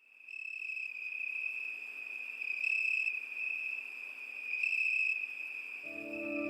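Continuous high-pitched insect trill that swells louder three times. Soft music with low held notes comes in near the end.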